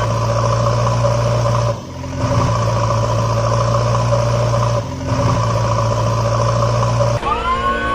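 An engine-like motor running steadily, cutting out briefly twice and stopping near the end.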